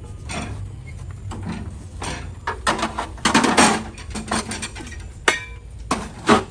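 Irregular clattering of hard objects: a series of knocks and scrapes of varying loudness, busiest and loudest about three seconds in, with a few sharp knocks near the end.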